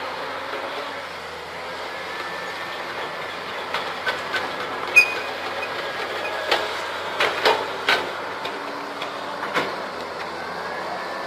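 Diesel engine of heavy tracked earthmoving equipment running steadily, with a series of sharp metallic clanks, as of steel tracks and links, from about four seconds in until near the end. The loudest clank comes about five seconds in.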